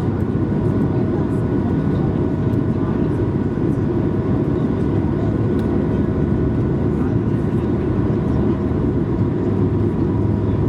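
Steady cabin noise of an Airbus A220-300 jet under way, heard from inside the cabin: a loud, even rush of engine and airflow noise with a few faint steady tones from the Pratt & Whitney PW1500G turbofans.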